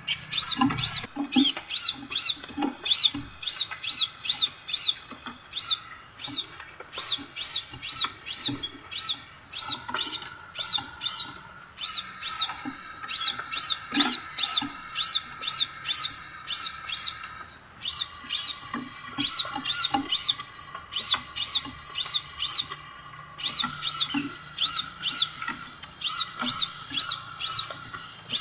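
Scarlet minivet (sepah raja) calling: a fast series of short, high chirps, about two or three a second, in runs broken by brief pauses.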